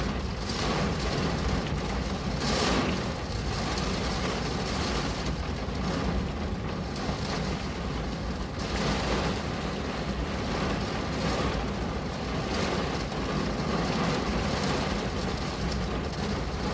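Steady rain falling on a window pane, an even rushing hiss with brief swells every few seconds.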